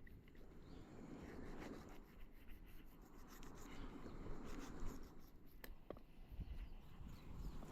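Knife scraping and cutting a fish as it is filleted: a soft scratchy rubbing with a couple of sharp clicks past the middle.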